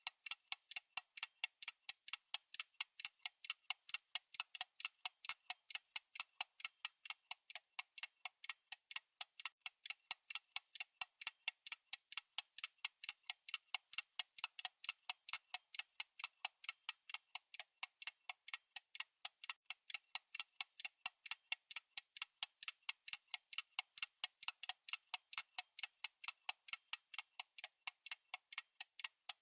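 Steady ticking of a countdown timer's clock-tick sound: evenly spaced light, thin clicks repeating without a break.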